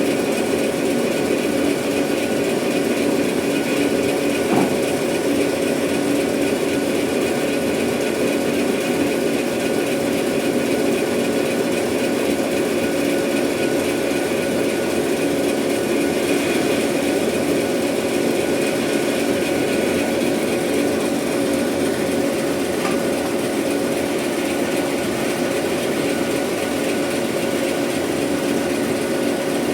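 Sawmill saw running steadily: a constant machine drone with a few held tones.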